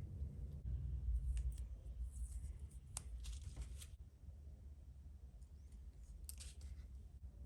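Small sharp clicks, snips and scraping of model kit parts being handled and worked by hand, in two short bursts, over a steady low hum.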